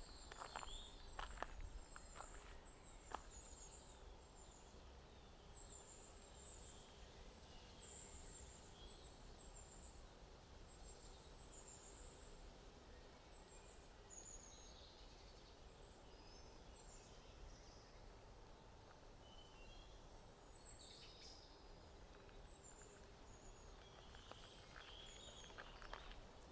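Faint songbirds chirping and trilling, high and thin, over a low steady background rumble. A few footsteps sound in the first few seconds and again near the end.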